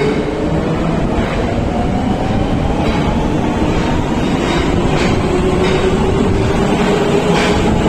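Higashiyama Line subway train running through the station without stopping. Its motor whine slowly rises in pitch over a heavy rumble, with intermittent clacks of the wheels.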